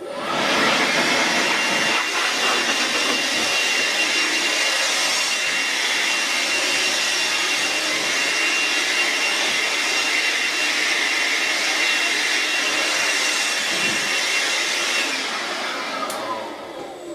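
A small electric motor blowing air, like a vacuum cleaner or blower, runs steadily with a thin whine over the rush of air. It starts suddenly and winds down with a falling pitch near the end.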